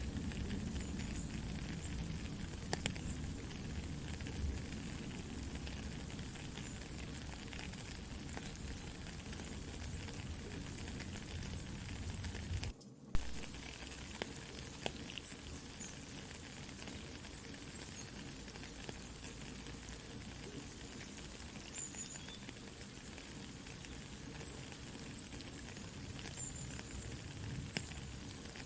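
Steady rain hiss mixed with a crackling campfire, scattered small pops and snaps. About halfway through the sound cuts out for a split second, then comes back with one sharp pop.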